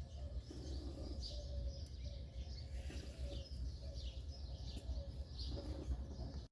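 Small birds chirping on and off over a low, steady rumble.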